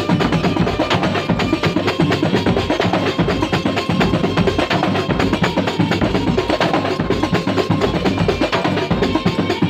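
Kuntulan ensemble playing a dense, quick rhythm of drum strokes, with a few held tones above the percussion.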